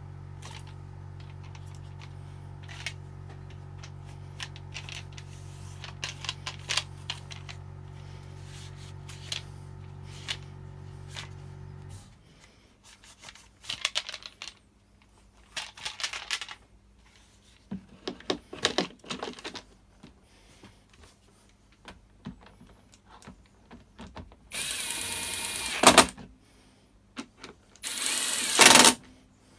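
A steady background hum with light clicks of parts being handled stops abruptly about twelve seconds in. Scattered clicks and rattles follow, then two loud bursts of a power screwdriver near the end as screws go back into the blower's housing during reassembly.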